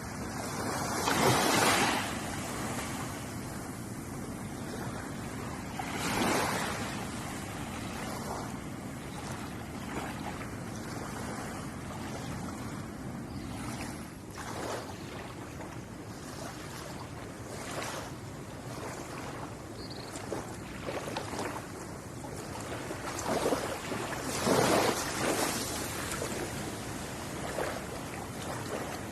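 Ocean surf washing on a beach: a steady wash of water with waves breaking more loudly about a second in, again around six seconds, and in a cluster near the end.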